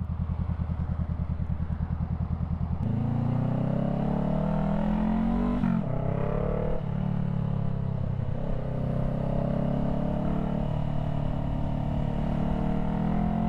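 Motorcycle engine idling with an even pulse, then pulling away about three seconds in and accelerating through the gears: its pitch climbs, drops at two upshifts, then settles into steady cruising.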